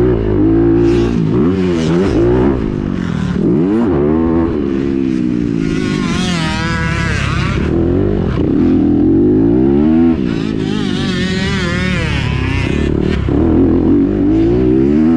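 Honda CRF250R single-cylinder four-stroke dirt bike engine revving hard and dropping off again and again as the throttle is opened and closed, its pitch rising and falling every second or two.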